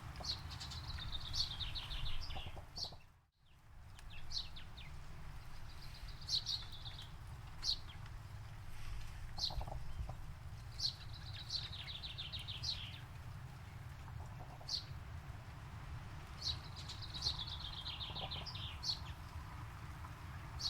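Birds singing: a phrase of quick notes stepping down in pitch, repeated about every five seconds, with single sharp chirps between, over a low steady rumble. The sound drops out briefly about three seconds in.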